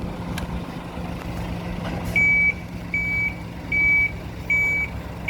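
A bus's reversing alarm beeping as it backs out of its bay, steady single-pitch beeps a little under a second apart that begin about two seconds in, over the steady running of its diesel engine.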